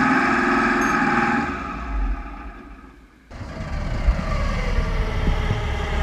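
Diesel engine of a Hopto H1900 hydraulic excavator running. The sound dies away over about two seconds, then cuts back in abruptly with a deeper rumble and a slowly falling whine.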